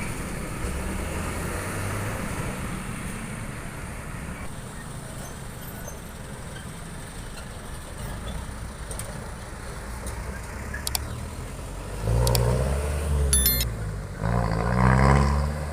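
Truck engine running with a steady low rumble, then revving louder with rising pitch about twelve seconds in and again near the end.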